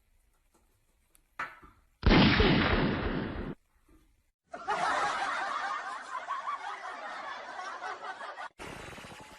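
A sudden loud bang-like burst, about two seconds in and lasting about a second and a half, followed by several seconds of laughter that slowly fades.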